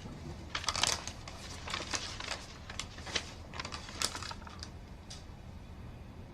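A string of irregular light clicks and rustles, over a low steady background hum.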